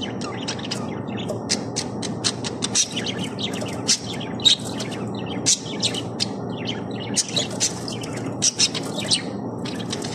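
Budgerigars chattering in a rapid, irregular run of sharp chirps, several birds calling over one another, over a steady low background hum.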